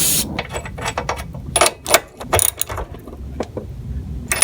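Irregular metallic clicks and clinks of hand tools and a spark plug being handled while working on a small mower engine, a few of them louder, sharper knocks.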